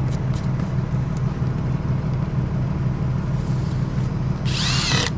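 An engine idling steadily with a low, throbbing hum. A brief high squeal comes near the end.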